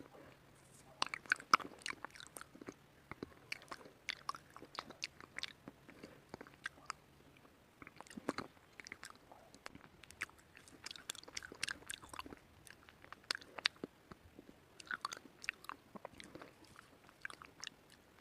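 Person biting and chewing white slate, close up: irregular clusters of sharp, brittle crunches with short pauses between bites.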